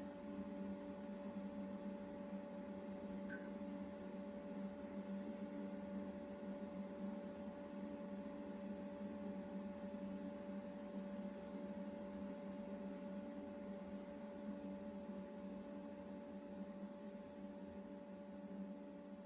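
Steady hum of a few held tones over a faint even hiss, with one small click a few seconds in.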